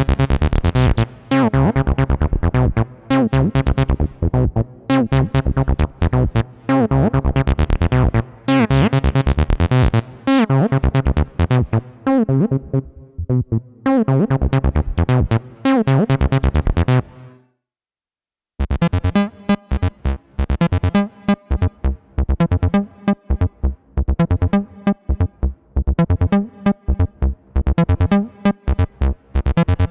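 Behringer TD-3-MO analog bass synthesizer playing a repeating acid bassline sequence, its resonant filter sweeping on each short note. The pattern stops about 17 seconds in, and after a second or so of silence a new pattern of shorter, duller notes starts.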